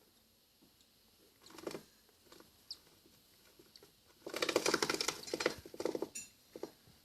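Newly hatched cockatiel chick making rapid, raspy pulsed calls, louder for about two seconds past the middle, after a short scratchy burst and a faint chirp earlier on.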